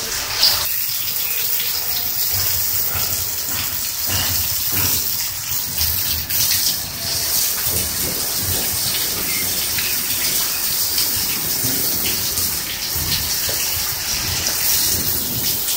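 Heavy rain pouring down and splashing on concrete and a wet street: a steady rushing hiss.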